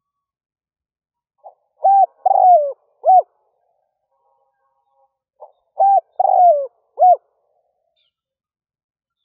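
Spotted dove cooing its song twice, about four seconds apart. Each phrase is a faint short note followed by three coos, the middle one longer and falling.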